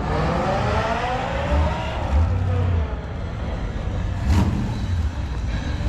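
A car engine revving up, its pitch rising over the first two seconds, over a steady low rumble of engines, with a sharp click about four seconds in.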